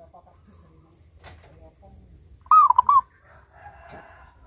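A zebra dove (perkutut) cooing: a short, loud burst of three quick rolling notes about two and a half seconds in, with fainter calls around it. A rooster crows faintly near the end.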